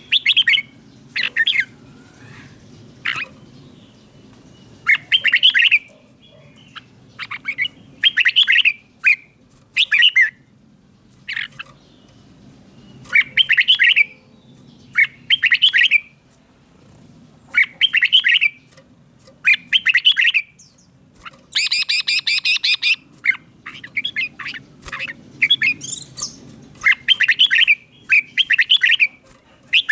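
Red-whiskered bulbul singing short, bright whistled phrases again and again, with brief pauses between them. About two-thirds of the way through comes a harsher, rapid chattering burst.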